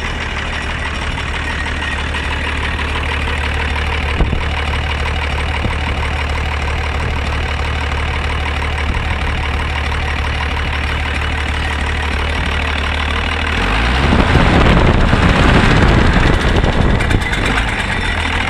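Leyland Comet truck's diesel engine idling steadily after seven years standing unused. Near the end it is revved up for about three seconds, then settles back to idle.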